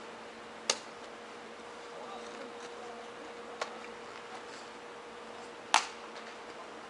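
Three sharp knocks a few seconds apart, the last the loudest, over a steady low hum.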